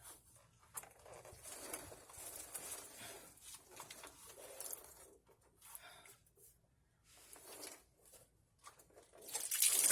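Irregular rustling and scraping of hands and hand tools working on a radiator hose and its fittings under a truck, with a few sharp clicks and a louder scraping, hissing stretch near the end.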